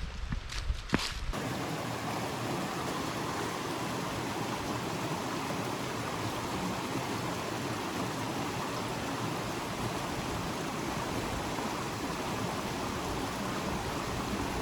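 A few footsteps, then from about a second in the steady rushing of a mountain stream.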